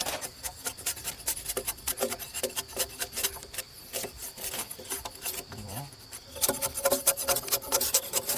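Hand tool rasping and scraping on wood in quick, irregular strokes, busier and louder in the last two seconds. A steady high tone runs underneath.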